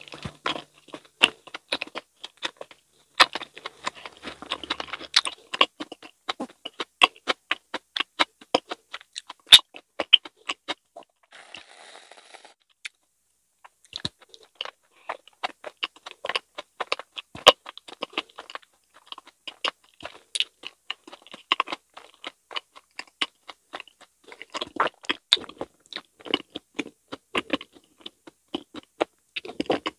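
Close-miked chewing of soft fruit mochi with whipped cream: sticky, wet mouth sounds and many small irregular clicks, with a short pause about halfway.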